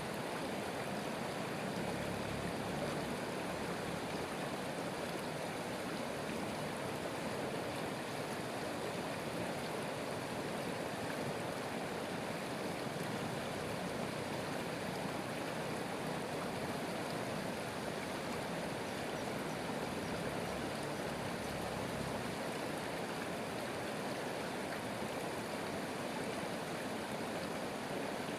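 A stream of running water, rushing and splashing steadily without a break.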